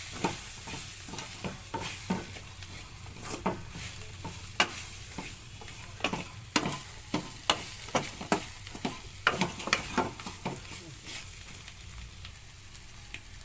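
Capsicum frying in a pan, sizzling steadily, while a spatula stirs it with irregular clicks and scrapes against the pan, a couple a second.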